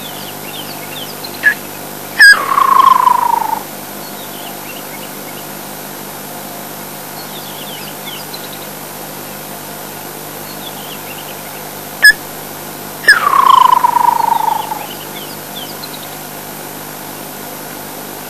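Woodland kingfisher calling twice, about eleven seconds apart: each call is a sharp single note followed by a loud trill that falls in pitch and lasts about a second and a half. Faint chirps of other birds in the background.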